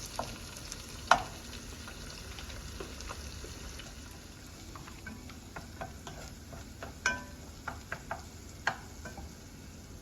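Food sizzling as it fries in a pan and is stirred, with a utensil clinking against the pan now and then. The loudest clink comes about a second in, and one at about seven seconds rings briefly, like metal struck.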